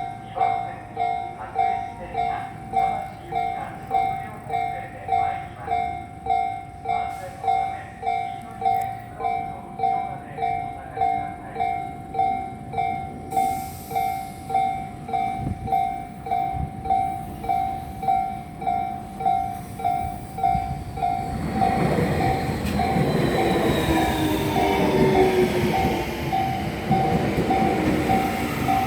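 Japanese railway level-crossing warning bell dinging steadily, about one and a half strikes a second. About 21 seconds in, an electric commuter train comes through and its wheels and motors rise over the bell.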